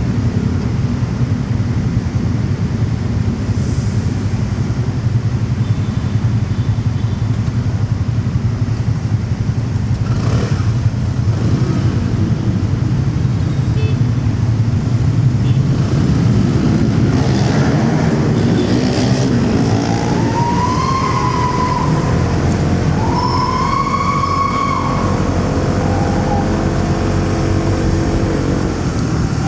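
Motorcycle engine running with wind and road traffic around it, a steady low rumble. In the second half the pitched drone of nearby engines comes up, and two high tones in quick succession rise and then fall.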